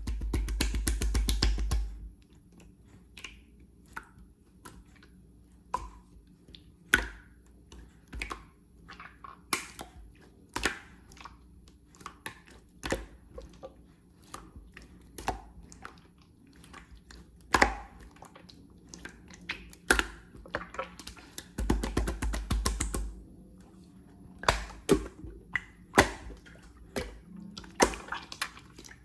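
Clear slime being pressed and squished by hand: scattered sticky clicks and pops, with two runs of rapid crackling, one at the start and one about three-quarters of the way through.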